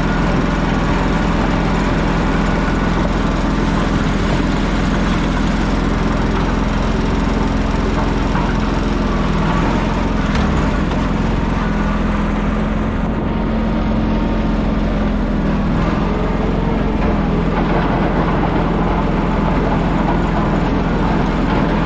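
An engine running steadily, its pitch drifting a little around the middle.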